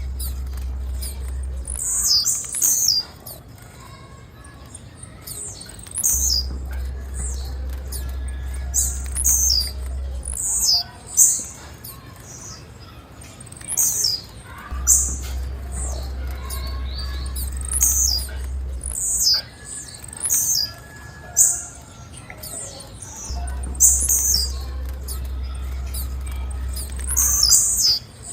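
Female blue-black grassquit (tiziu) calling: short, high chirps that sweep downward, repeated every second or two, often in pairs. A low hum cuts in and out every few seconds underneath.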